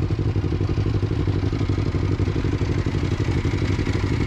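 Motorcycle engine running steadily at low, even revs, a rapid stream of firing pulses holding one pitch.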